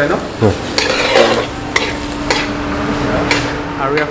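Metal spatula scraping and knocking in a kadai as chicken pieces fry and sizzle in oil. The strokes come about twice a second over a steady hum.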